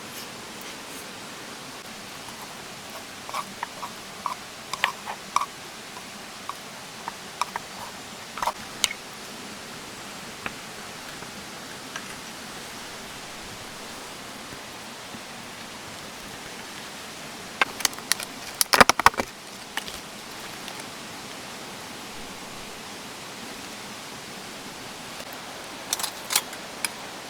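Steady rushing noise, with scattered short clicks and knocks: a few spread over the first several seconds, a quick cluster a little past the middle, and a couple near the end.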